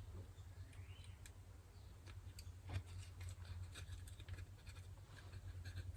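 Faint small clicks and light scraping of small carburetor parts being handled as a jet-cleaning wire is worked through a plugged jet, with one sharper click about three seconds in, over a steady low hum.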